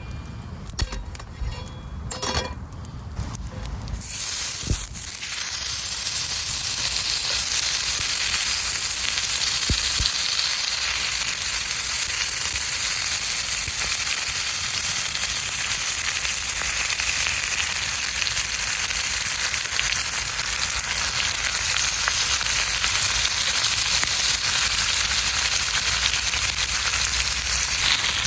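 Sizzling over a campfire: a steady hiss with fine crackles that comes in suddenly about four seconds in, after a few light clicks and knocks.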